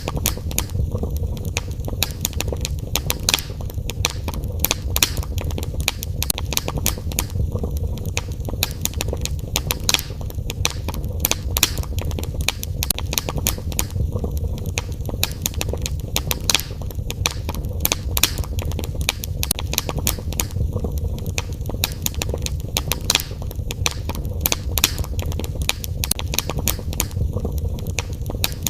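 Wood fire in a fireplace crackling and popping, with frequent sharp snaps over a steady low rumble.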